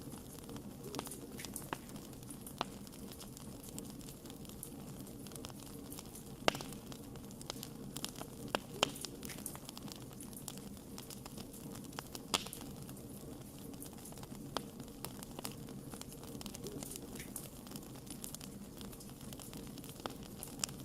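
Wood fire burning with irregular crackles and pops over a steady low hiss, with a few louder pops near the middle.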